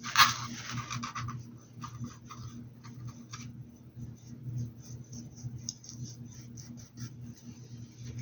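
Short, scratchy rubbing strokes of hand work on a hat, with a sharp knock and a brief scrape just after the start, over a steady low hum.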